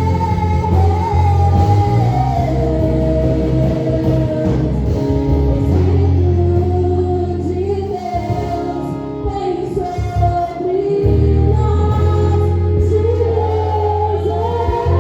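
Live gospel worship song: voices singing a melody over a band with long held bass notes, the bass dropping out briefly about two thirds of the way through.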